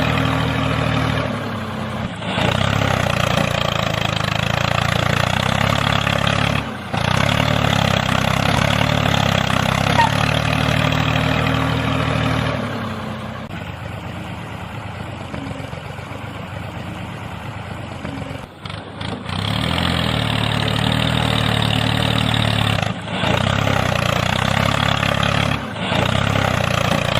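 The small motor of a homemade miniature tractor runs steadily in long spells, cutting out briefly a few times, with a quieter stretch in the middle.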